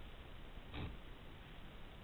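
A brief, soft rustle of paper sheets being handled, a little under a second in, over a steady background hiss.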